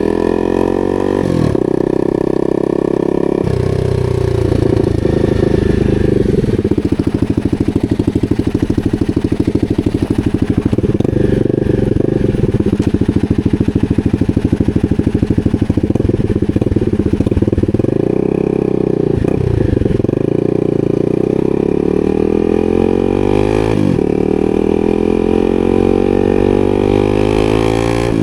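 250cc supermoto motorcycle engine under way, its revs climbing and dropping again and again through gear changes. Through the middle it runs at lower revs with a clear pulsing beat before pulling up again.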